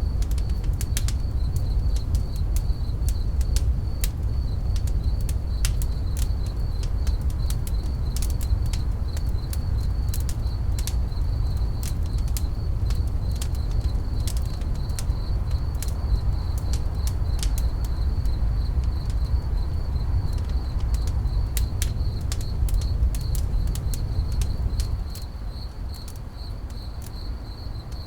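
Campfire crackling with many sharp pops over a steady low rumble, with crickets chirping in a continuous high trill. The rumble drops noticeably about 25 seconds in.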